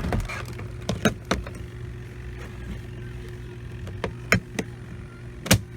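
Small portable camp washing machine's electric motor running with a steady hum. Sharp clicks and knocks come over it, a few about a second in, two more near four seconds, and the loudest about half a second before the end.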